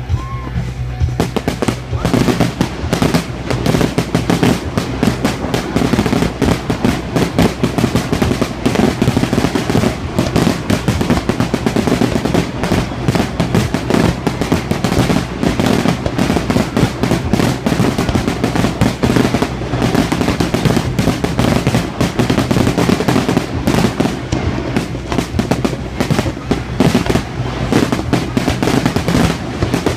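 A fireworks display going off in a dense, continuous barrage: sharp bangs and crackles following one another many times a second with no pause.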